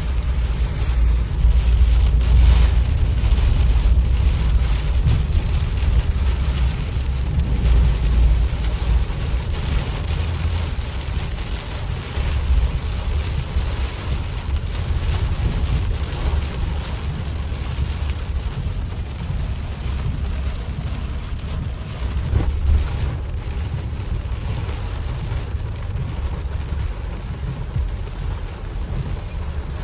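Rain falling steadily, with wind buffeting the microphone as a continuous low rumble.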